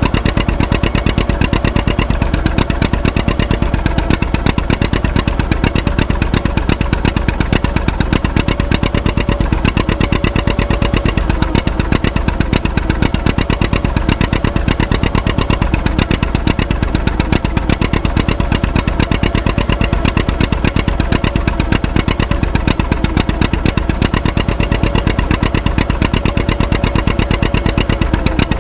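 Antique tractor engine running steadily, with a rapid, even exhaust beat.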